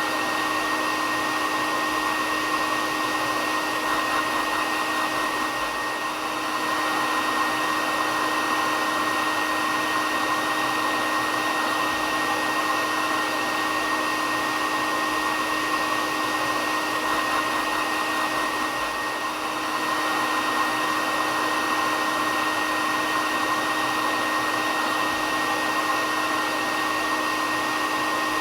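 Hair dryer running steadily: a continuous rushing of air with a steady high whine and a lower hum from the motor. The level dips slightly twice.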